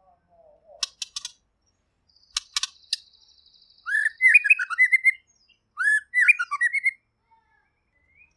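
White-rumped shama singing: a few sharp ticking notes and a thin buzzy trill, then two loud whistled phrases about 4 and 6 seconds in, each opening with an upward slide and breaking into quick warbles.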